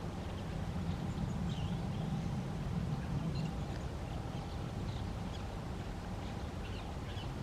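Short, high bird calls, scattered every second or so, over a steady low rumble.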